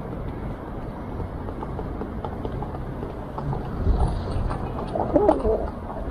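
Pigeon cooing about five seconds in, over a steady low rumble of city traffic, with a short low thump a second before.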